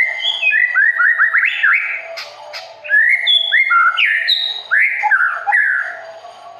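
Songbird singing a fast, varied run of clear whistled notes, many of them quick upward or downward slurs, packed closely together with short gaps around two and six seconds in.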